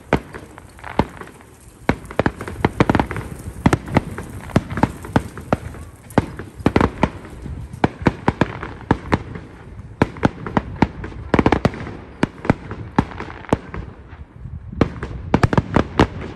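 Aerial fireworks bursting one after another: sharp bangs mixed with quick crackling pops. Dense flurries come about ten to twelve seconds in and again near the end.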